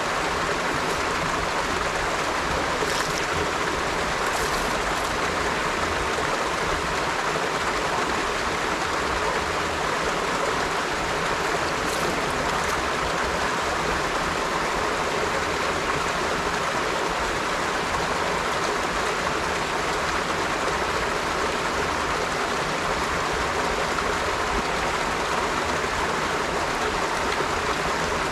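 River water flowing steadily over stones: a continuous, even rush, with a few faint splashes.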